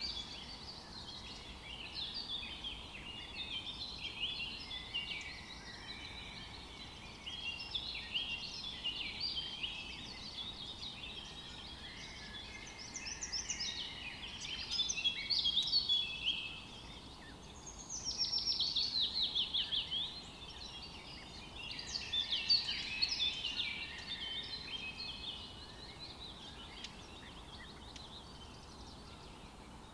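Several songbirds singing and calling over one another in woodland, with quick chirps and warbles. A little past the middle comes a fast trill of many short, closely spaced notes. The song thins out over the last few seconds.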